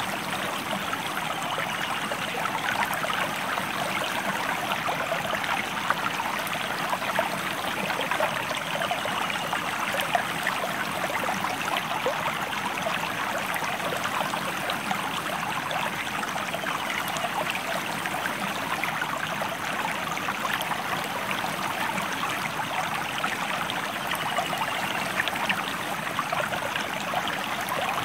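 Stream flowing: a steady rush of running water with constant small splashes and bubbles.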